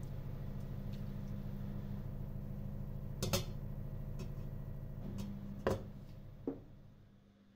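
A small motor running steadily with a fast, even pulsing hum, winding down and stopping about six seconds in, with a few sharp clicks and knocks over it.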